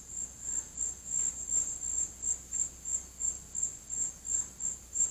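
An insect chirping in a steady rhythm, about three high-pitched chirps a second.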